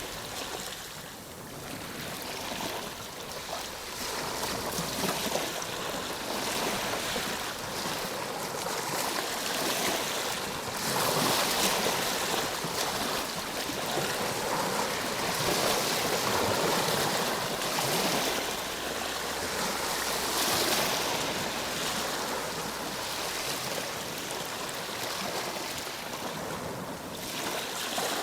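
Ocean surf: waves breaking and washing in as a continuous rush of water that swells and ebbs, loudest through the middle.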